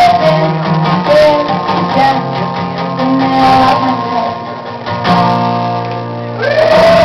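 Acoustic guitar strummed in a live song, with a voice singing over it. It gets louder about six and a half seconds in.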